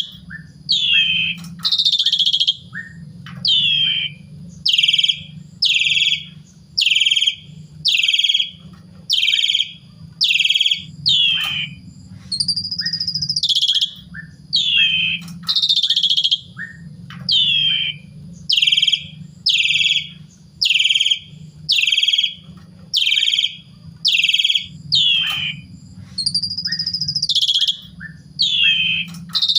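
Asian pied starling (jalak suren) singing a long run of loud, clear whistled notes, about one a second, many sliding down in pitch, over a low steady hum.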